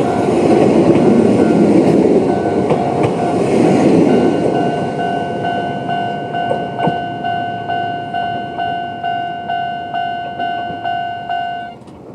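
A Chichibu Railway 5000-series electric train running over a level crossing, its wheels clattering on the rail joints, then fading away. The crossing's warning bell, an old-type standard electronic tone, rings throughout at a little over two strokes a second and cuts off suddenly near the end.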